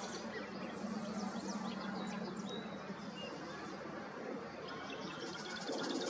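Birds chirping: many short, high chirps scattered over a steady outdoor hiss, with a low hum for about a second, starting about a second in.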